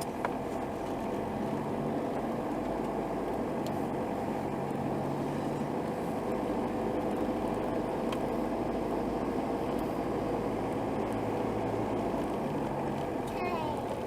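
Steady engine and road noise of motor vehicles running.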